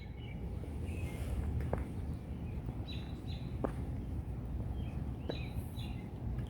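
Birds giving short high chirps every second or two over a steady low rumble of background noise, with a few faint sharp ticks.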